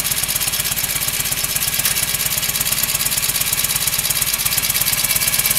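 1947 Indian Chief's side-valve V-twin engine running at a steady idle, an even train of exhaust pulses.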